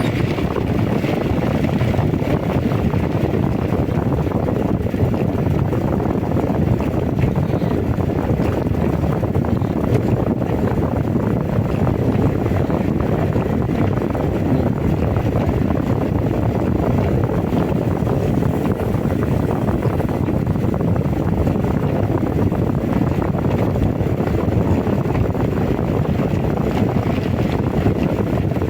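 Heavy rain and strong wind, with the wind buffeting the microphone: a steady, dense rushing noise that does not let up.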